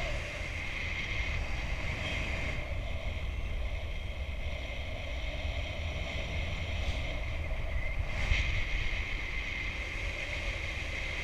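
Steady rush of airflow buffeting the microphone in paraglider flight, heaviest in the low rumble, with a brief louder gust a little after eight seconds in.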